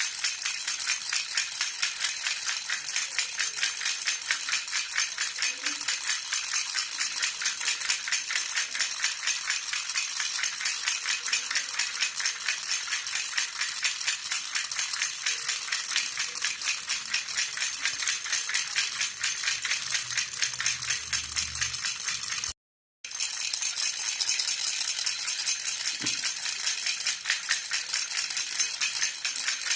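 Jhunjhuna baby rattle shaken continuously and fast, giving a steady, bright jingling. It cuts out for a split second about three quarters of the way through.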